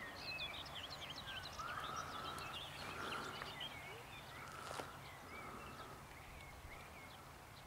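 Several songbirds chirping and warbling in many quick, short high notes, over a faint steady low hum, with a soft tick about five seconds in.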